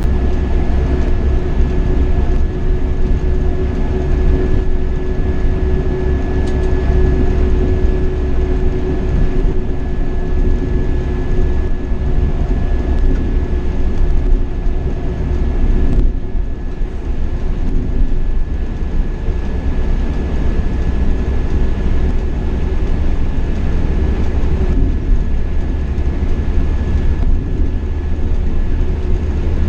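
Marcopolo Paradiso 1800 DD double-decker coach on a Scania K420 chassis driving at steady speed: a constant low engine drone with road noise and a thin steady whine.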